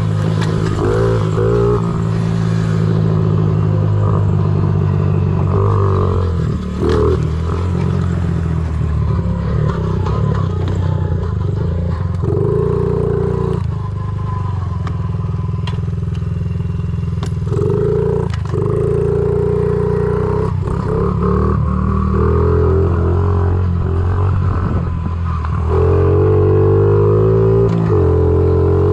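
Honda CRF50 pit bike's small single-cylinder four-stroke engine running under throttle, revving up and easing off several times, loudest near the end. Scattered knocks and clatter come from the bike jolting over rough trail.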